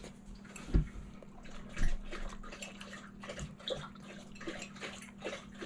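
Someone chewing a mouthful of food close by, with small clicks of a fork and two soft low thumps early on, over a steady low hum.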